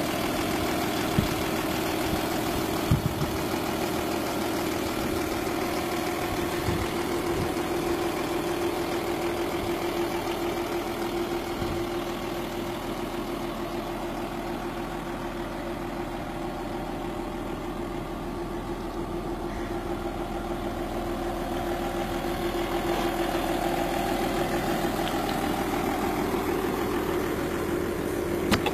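Audi A8 D2 engine idling steadily, an even low hum.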